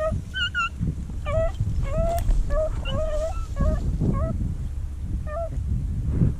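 Beagles giving tongue in about ten short, pitched yelps at irregular intervals, each rising then falling in pitch, over a low rumbling noise.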